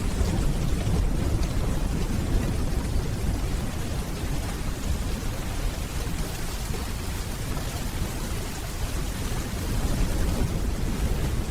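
Steady rainfall with a low, rolling rumble of distant thunder underneath.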